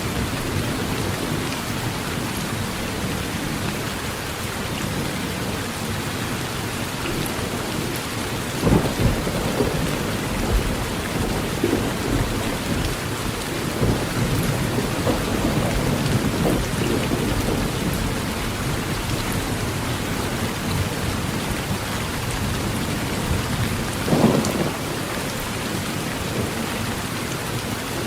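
Heavy rain falling steadily on a tin roof, with thunder rumbling, loudest about nine seconds in and again about twenty-four seconds in.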